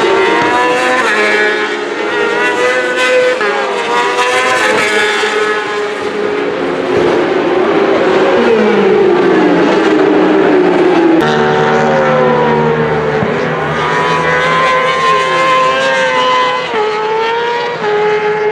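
Racing engines at high revs, several at once, their pitch climbing and dropping with gear changes and as they pass. The sound changes abruptly about eleven seconds in to another stretch of engines.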